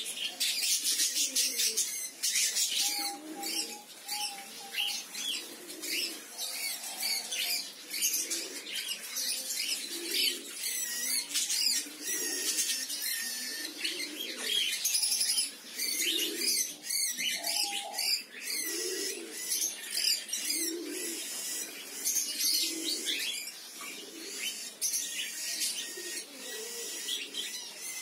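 A flock of budgerigars chattering, with rapid high chirps and twitters throughout. Underneath, a low call repeats about once a second.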